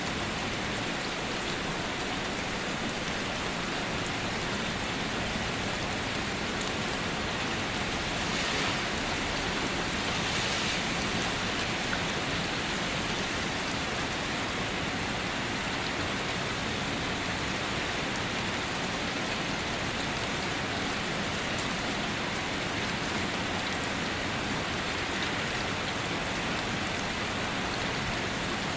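Steady rain falling on a surface, an even hiss of drops that swells slightly about a third of the way through.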